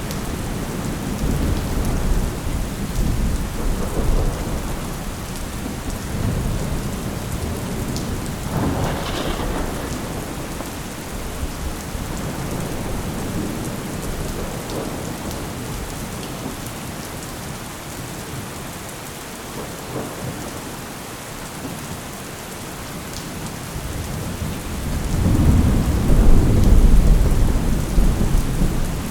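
Thunderstorm: steady rain hissing, with rolling thunder rumbles, a sharper crack about nine seconds in and a loud, deep roll of thunder near the end.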